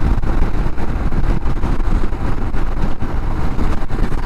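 Royal Enfield Himalayan motorcycle riding at highway speed: steady engine and road noise under a heavy wind rumble on the rider's microphone.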